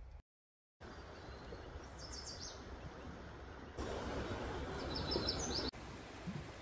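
Steady outdoor background noise with small birds chirping: a quick run of high notes about two seconds in and another about five seconds in. The background grows louder near the middle.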